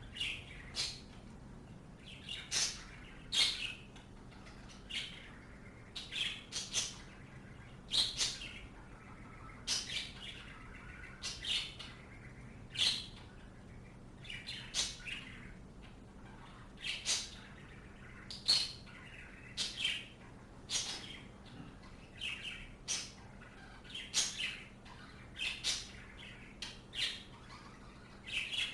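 Small birds chirping: short, sharp, high calls repeated about one or two a second, over a faint steady low hum.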